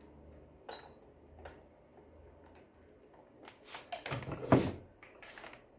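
Handling noise from tools and parts being picked up and set down: a couple of light knocks, then a short run of clattering knocks about three and a half seconds in, the loudest near the end.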